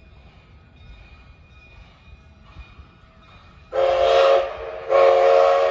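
Locomotive whistle sounding two short blasts, a chord of several notes, near the end; the second blast starts about a second after the first.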